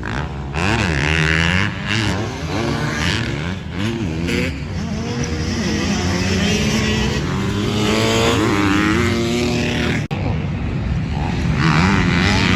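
Several motocross bikes racing, their engines revving up and down as they accelerate and back off. The sound briefly drops out about ten seconds in.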